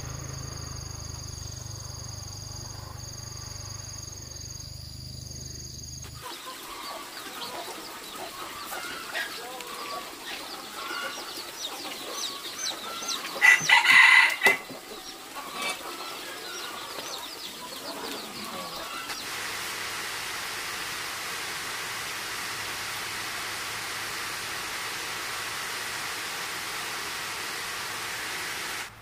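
Chickens clucking, with a rooster crowing loudly once about halfway through. The calls are preceded by a steady machine-like hum with high whining tones and give way, after about two-thirds of the way in, to a steady hiss.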